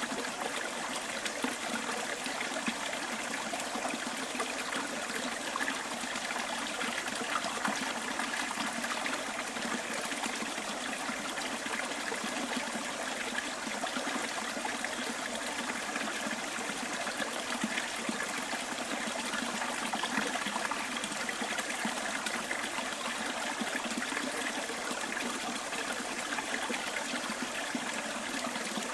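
Small bush stream trickling and gurgling over stones, a steady, even rush of water with fine bubbling detail.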